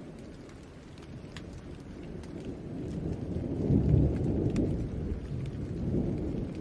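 Steady rain with scattered sharp drop ticks, under a low rumble of thunder. The rumble builds from about two seconds in, is loudest around the middle and swells again near the end.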